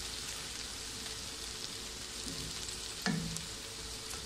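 Chopped okra sizzling steadily as it fries in oil in a pan, with one knock of the wooden spatula against the pan about three seconds in.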